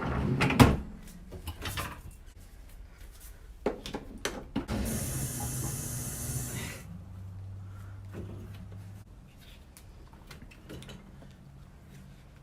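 Flip-flops and dishwasher racks knocking and clattering as the dishwasher is loaded, then a hiss lasting about two seconds, followed by a low steady hum for about two seconds and a few soft knocks.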